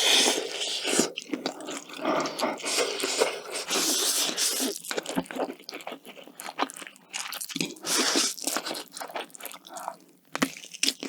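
Close-miked eating: crunchy bites and chewing in irregular bursts, with sharp clicks now and then.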